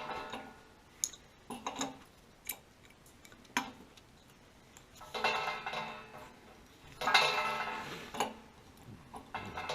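Metal objects clinking and knocking together, with two longer ringing clatters about five and seven seconds in.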